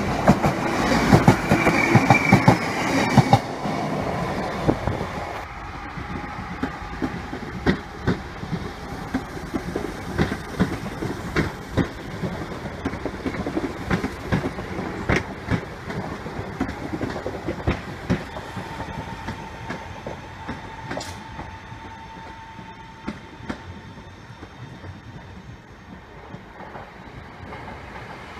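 A train passing close by, loudest in the first few seconds, then drawing away and fading, with scattered clicks of wheels over the rail joints.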